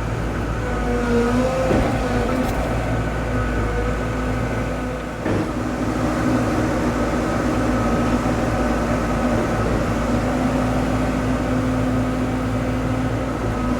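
Diesel engine of a heavy earthmoving machine running steadily, its pitch shifting slightly as it works.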